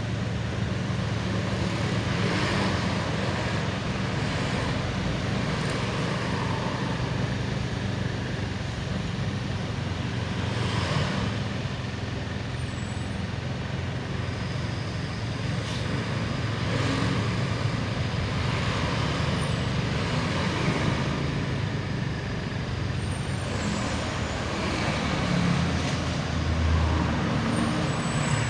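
Bus engine running steadily with a low hum, amid road traffic noise that swells and eases several times.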